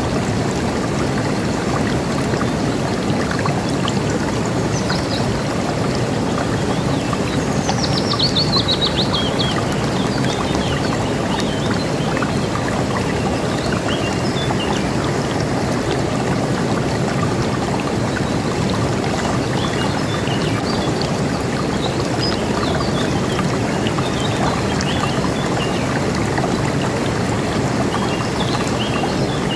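A river rushing steadily, with birds chirping over it. About eight seconds in, one bird gives a quick run of notes falling in pitch.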